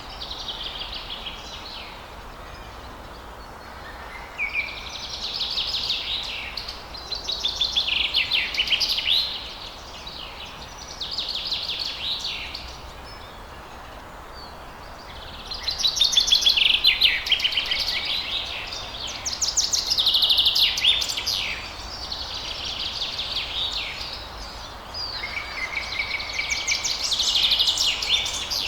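Songbirds singing at dawn: repeated phrases of quick high notes and trills, each a second or three long with short pauses between, over a faint steady background hiss.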